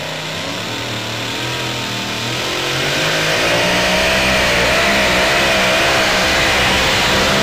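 Super modified two-wheel-drive pulling truck's supercharged engine running at high revs during a pull, its pitch wavering up and down. It grows louder about three seconds in and stays loud.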